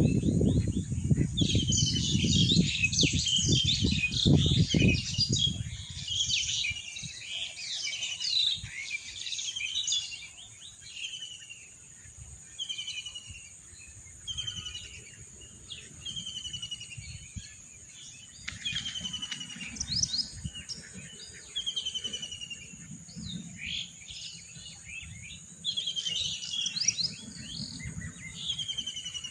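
Birds chirping, one bird repeating a short falling note every second or so, with denser twittering in the first few seconds and again near the end. A louder low rushing noise runs under the first six seconds and then stops.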